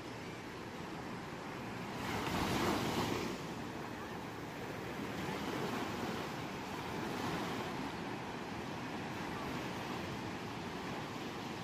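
Ocean waves washing onto a shore in a steady hiss, with one louder wave breaking about two seconds in and smaller ones after.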